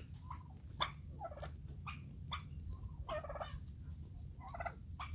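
Domestic turkeys calling from the pen in a string of short, separate calls, several a second apart, with one sharp tick just under a second in.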